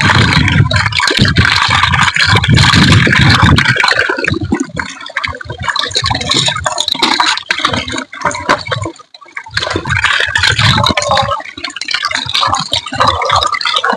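Water running and splashing, with small clicks and knocks.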